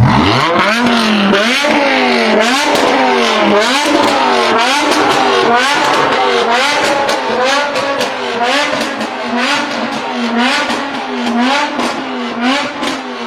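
BMW performance car engine revved hard over and over, its pitch climbing and falling about once a second, with sharp cracks from the exhaust through it. The pitch falls away near the end.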